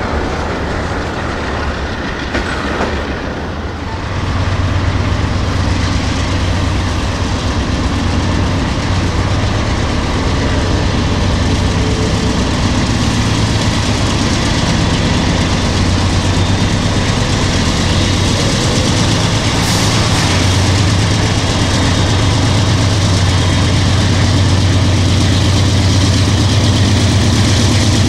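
Diesel locomotives hauling a double-stack container train pass close by. Their engines give a steady low drone that comes in strongly about four seconds in and grows slightly louder toward the end, over the rumble and clatter of the cars on the rails.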